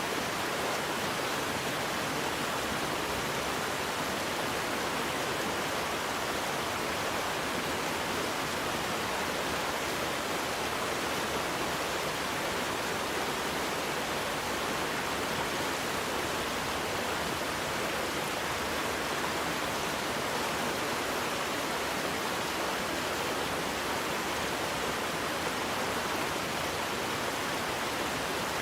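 Waterfall: water crashing and rushing in a steady, unchanging roar.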